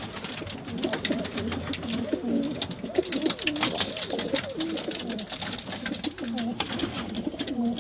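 Domestic pigeons cooing in a cage, several low warbling coos overlapping, with short clicks among them.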